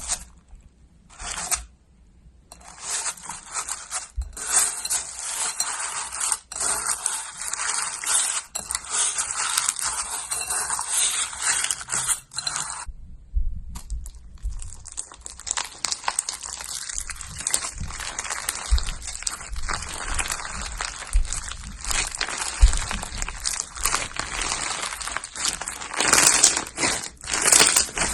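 Slime being pressed and worked by hand close to the microphone: a dense run of small crackles and crunches. It stops briefly about 13 seconds in, then starts again.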